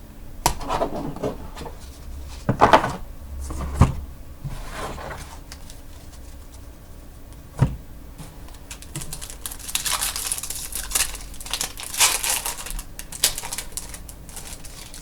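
Trading card packs and cards being handled: wrappers crinkling and tearing, with sharp clicks of cards being flipped. The crinkling is loudest from about ten to thirteen seconds in.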